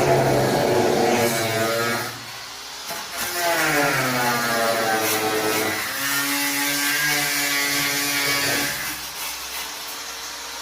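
A power tool's motor cutting, likely through wood. Its pitch sags as the cut loads it, drops away briefly about two seconds in, then climbs and holds steady before easing off near the end.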